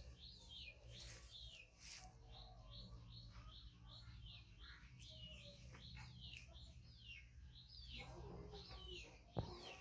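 A small bird chirping faintly and steadily, short falling chirps about three a second, over a low hum. A single knock near the end.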